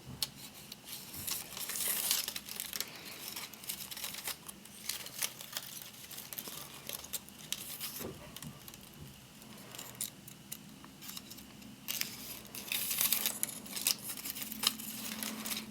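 Strips of palm frond rustling and crinkling as they are folded over, tucked in and pulled through during weaving. Irregular soft crackles throughout, with louder bursts about two seconds in and again near the end.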